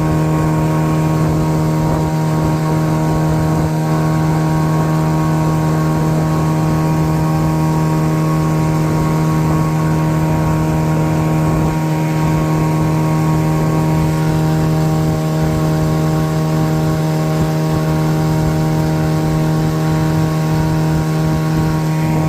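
A loud, steady mechanical hum: one low pitch with a stack of overtones that holds constant throughout.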